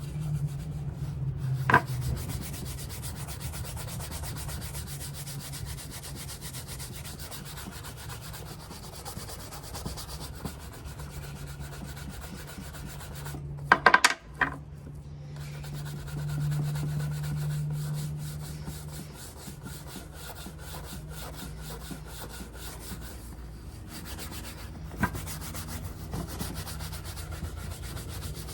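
Quick, continuous rubbing strokes on the leather of a worn Paraboot Michael shoe during cleaning and polishing. A few sharp knocks come about 2 s in and near the middle, where the loudest cluster falls.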